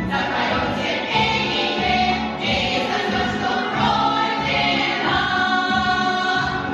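A choir singing with musical accompaniment, the voices holding long notes.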